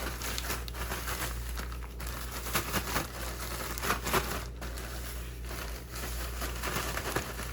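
A bag holding crackers and jerk seasoning being shaken to coat the crackers: continuous crinkling of the bag with the crackers tumbling inside.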